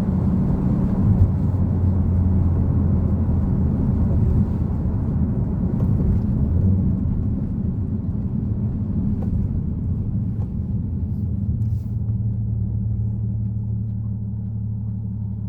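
Nissan Fairlady Z (Z34) 3.7-litre V6 running at low revs under a road rumble. The sound eases gradually and settles into a steadier, even low hum about three-quarters of the way through.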